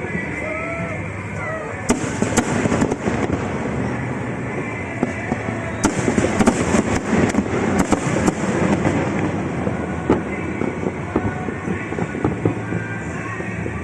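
Fireworks bursting: clusters of sharp cracks and bangs, one burst about two seconds in and a denser run from about six to eight and a half seconds, with scattered single bangs later, over a steady background din.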